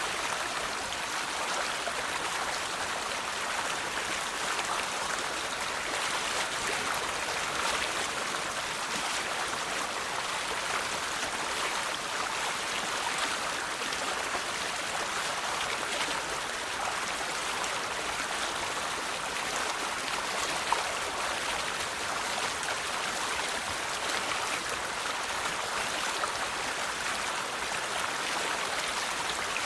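River water flowing steadily over stones, a continuous babbling rush, with a single faint click about two-thirds of the way through.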